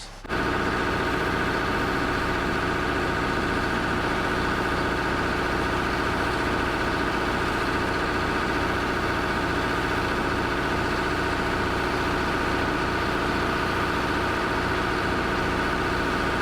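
Heavy vehicle engine running steadily at a constant pitch, starting abruptly just after the start.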